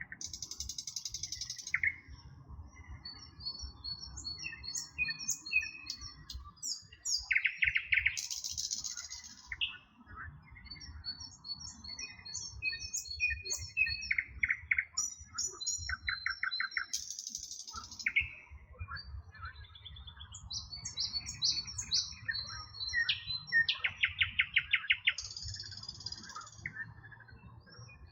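Several songbirds singing together in a dawn-chorus-like mix: repeated high chirps and whistled notes, short rapid trills and brief hissy bursts, overlapping throughout, over a low background rumble.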